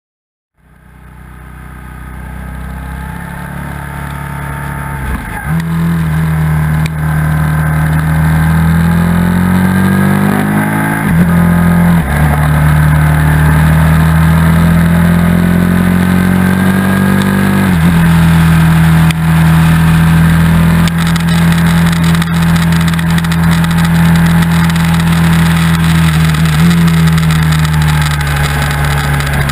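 Motorcycle engine running at track speed, heard from an onboard camera with wind noise, fading in over the first few seconds. Its pitch holds for several seconds at a time, climbs slowly, and shifts suddenly a few times.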